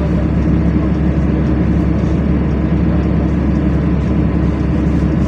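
LiAZ-5292 city bus running steadily under way, its engine drone and road noise heard from inside the passenger cabin.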